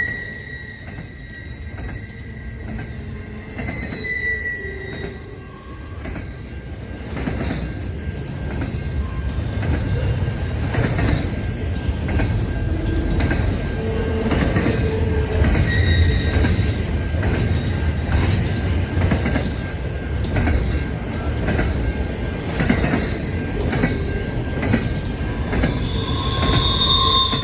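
A train rolling past with a low rumble and repeated clicking of wheels over the rail, with short wheel squeals here and there; it grows louder after about six seconds.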